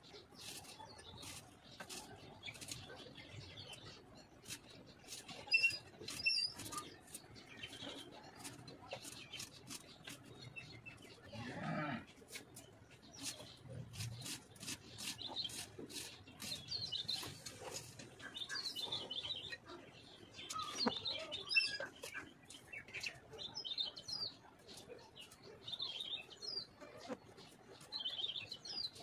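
Small birds chirping in scattered bursts, over a steady run of soft clicks and ticks.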